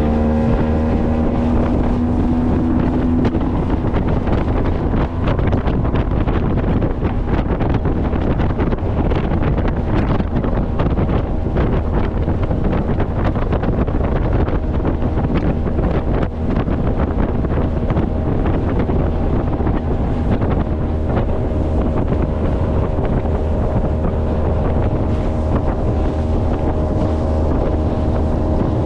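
Motorboat engine running underway, with heavy wind buffeting the microphone. The engine's pitch drops in the first few seconds.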